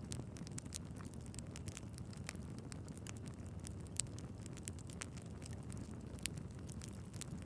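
Wood fire burning in a fireplace: a low steady rumble of flames with frequent small crackles and two louder pops of the logs.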